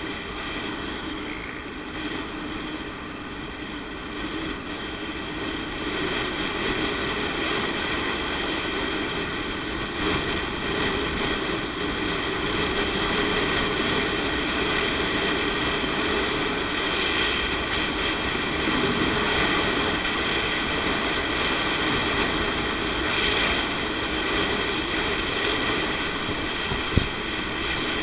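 Motorcycle running steadily under way, engine hum mixed with road and wind noise, growing louder over the first few seconds. A single sharp click near the end.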